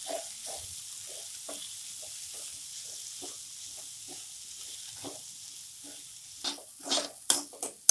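Peas and ground spices sizzling in oil in a frying pan while a spatula stirs and scrapes through them, about three strokes a second, louder and sharper near the end. This is the masala being fried briefly with boiled peas for a potato-pea filling.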